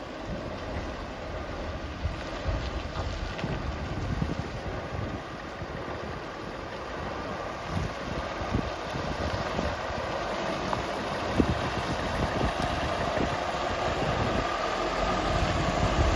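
Scania R520 crane truck's V8 diesel idling, growing gradually louder, with wind buffeting the microphone.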